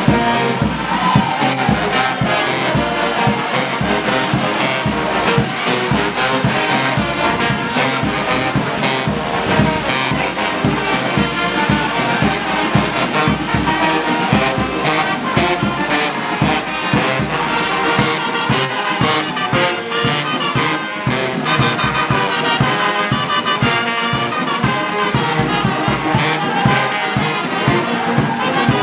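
Brass band playing, with trumpets and trombones over drums.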